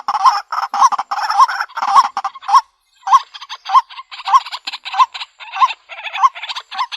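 White-breasted waterhen calling: a loud harsh note repeated about every 0.6 s, each with a quick upward hook, with a brief break about two and a half seconds in. This is the male's call, used as a lure recording to draw waterhens in.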